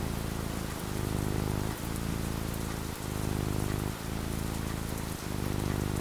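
Steady rain falling, an even hiss, with a low rumble underneath that dips briefly about once a second.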